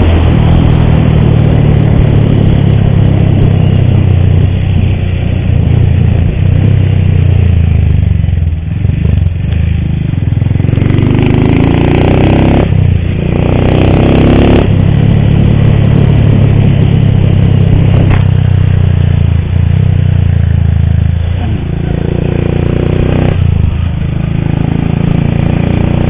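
Motorcycle engine running under way, its pitch rising three times as it accelerates. It carries a rattle that the rider blames on a worn, noisy timing (cam) chain.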